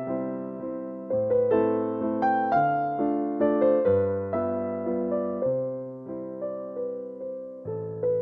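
Background piano music: a slow, gentle melody of struck notes that fade away, over bass notes that change about every second and a half.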